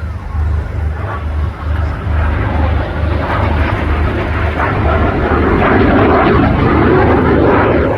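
An aircraft flying past at an airshow, its engine noise growing louder and loudest near the end before dropping suddenly.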